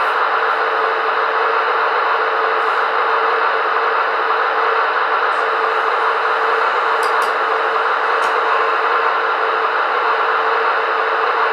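Märklin VT 11.5 model train's digital diesel engine sound playing from its small onboard loudspeaker: a steady, hissy running hum with one low tone held throughout.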